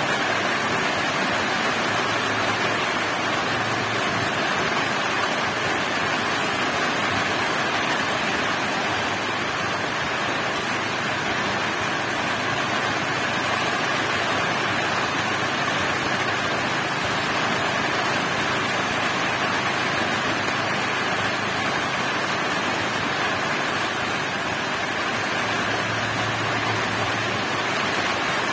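Heavy rain falling: a steady, even hiss that does not let up.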